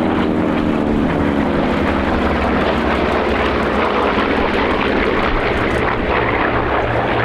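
Corsair fighters' Pratt & Whitney R-2800 Double Wasp radial engines flying past: a loud droning engine note that falls in pitch over the first few seconds, then settles into a steady rumble.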